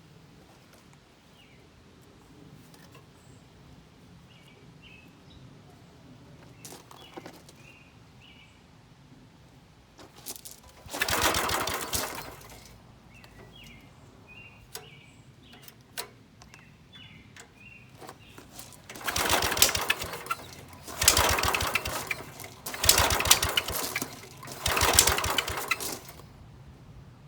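Small Briggs & Stratton gasoline engine on an air compressor being pull-started: one short burst of cranking and sputtering about eleven seconds in, then four more in quick succession near the end, each dying out after about a second and a half without the engine staying running.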